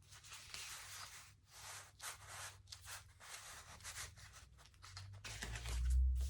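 Thick magazine-paper journal pages rustling and rubbing as they are handled and turned, in a string of short swishes, with a low thump near the end.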